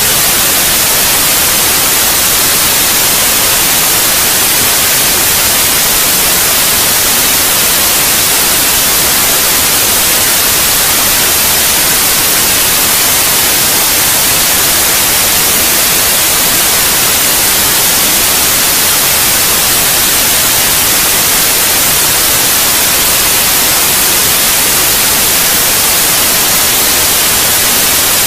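Steady white noise played as a baby sleep aid: an even, unchanging hiss, brightest in the treble.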